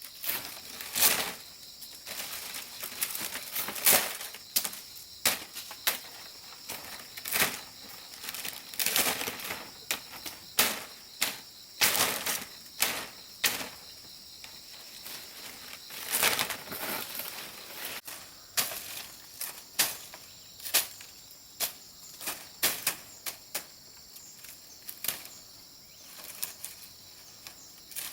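Repeated rustling swishes and snaps of leafy plant material being worked by hand, roughly one a second and uneven, over a steady high drone of insects.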